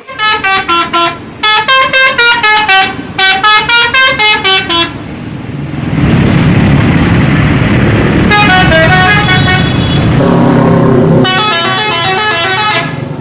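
A bus's multi-note musical horn playing quick runs of rising and falling notes, loudest in the first five seconds, with two shorter runs later, over a steady engine rumble.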